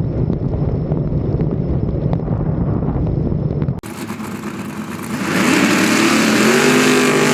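Steady low engine rumble heard from inside a vehicle, then, after an abrupt cut, a drag-race car's engine revving up with rising pitch as it accelerates down the strip.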